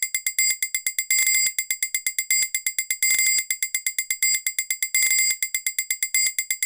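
A bell ringing in rapid repeated strokes, about eight a second, on one steady high ringing tone, like an electric alarm bell, in runs with brief pauses between them.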